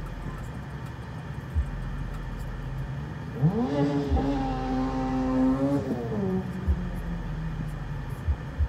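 A car engine revs up sharply about three and a half seconds in, holds a high steady note for about two and a half seconds, then drops back down, most likely the rally-liveried small hatchback passing in front. Under it runs the steady low hum of a car heard from inside its cabin.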